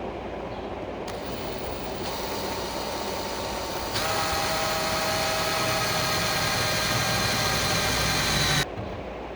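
Workshop machine and power-tool noise in several abruptly cut segments. The loudest is a steady whine with several tones from about four seconds in until it cuts off sharply near the end.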